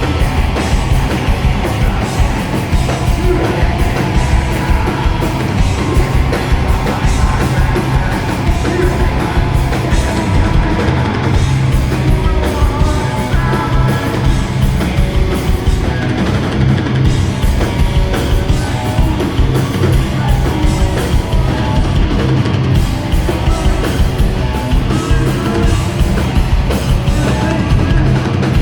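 Loud live extreme metal/hardcore band playing: heavily distorted guitars and bass over fast, pounding drums, with yelled vocals.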